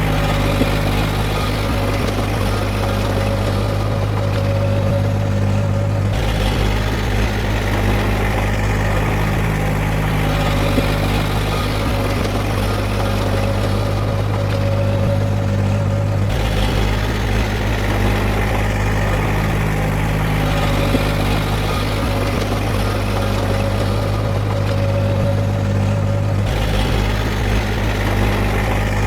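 Diesel engine of heavy earthmoving machinery running steadily, its tone changing abruptly about every ten seconds.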